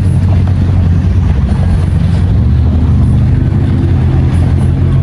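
A Dodge R/T's 5.7-litre Hemi V8 running at low revs with a loud, steady, deep exhaust note, the resonator already removed and the catalytic converters and mid mufflers still on.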